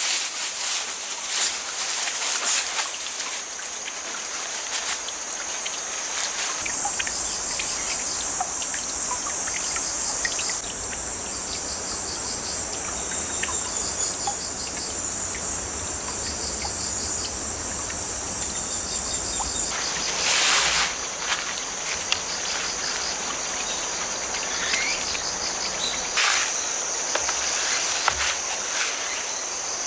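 Autumn crickets and other grass insects chirring in a steady high trill, joined for a stretch by a second, higher trill with pulsed chirps beneath it. Scattered small clicks, with a brief louder rustle about two-thirds of the way through.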